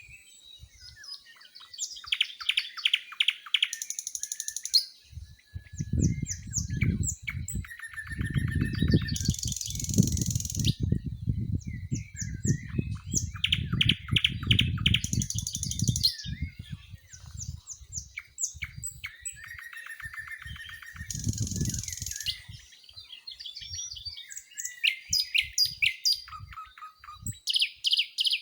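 Wild songbirds singing, several overlapping songs of quick repeated chirps and trills. Bouts of low rumble sit underneath, strongest in the middle.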